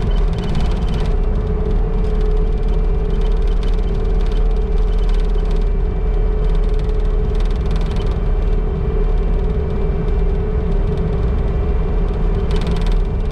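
A vehicle's engine running steadily while driving, with a steady whine over the low rumble and a few short rattles from the rough, washed-out track.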